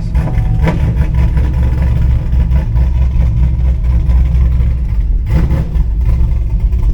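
Camaro's LS3 6.2-litre V8 idling roughly, heard from inside the car: a steady low engine note with a misfire, and a brief change in the running about five seconds in.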